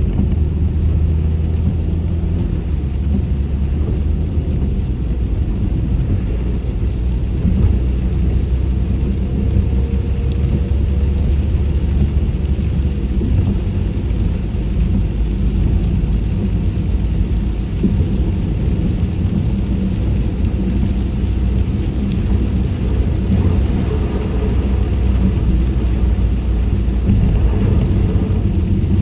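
Steady low road rumble inside a car's cabin with the windows up, driving on wet pavement in the rain.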